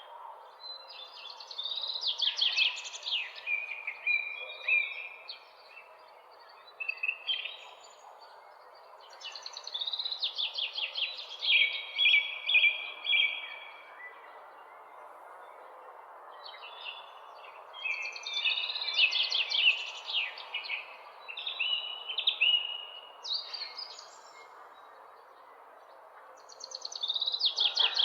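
Songbird singing in bouts of quick chirps and trills, one phrase every several seconds, over a steady background hiss.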